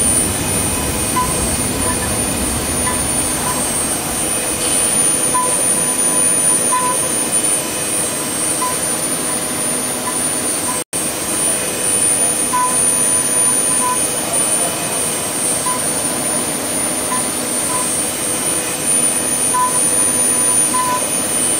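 CNC lathe's router spindle whining steadily while a 6 mm ball-nose cutter makes the finishing pass on a turning wooden blank. The sound cuts out for an instant about eleven seconds in.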